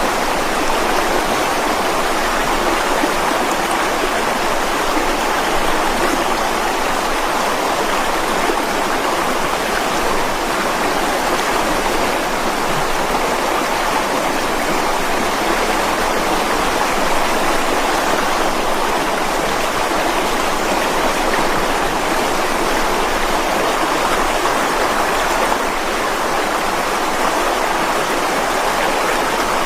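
Mountain stream running over rocks, a steady, unbroken rush of water.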